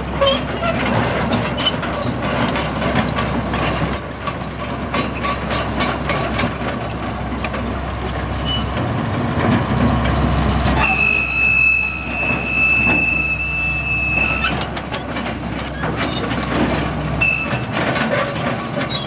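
John Deere 270LC excavator running and working, its diesel engine rumbling under many metallic clicks, clanks and squeaks. About eleven seconds in, a steady high-pitched squeal holds for some three seconds, then stops.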